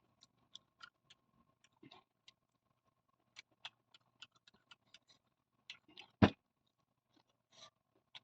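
Close-up mouth sounds of eating wet rice: short sticky clicks and smacks of chewing, irregular and several a second. About six seconds in there is one loud thump.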